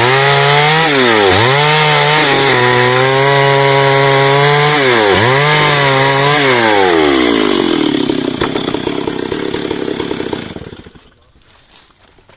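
Chainsaw at full throttle ripping through hardwood heartwood, its engine pitch dipping sharply and recovering several times as the chain bogs in the cut. About six seconds in the revs fall away to a rough idle, and the saw stops near the end.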